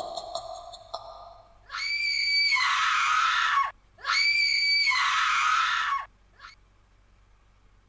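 Two long, shrill screams, each about two seconds, one right after the other, each dropping in pitch as it breaks off. Before them, a fading eerie tone from a previous effect dies away.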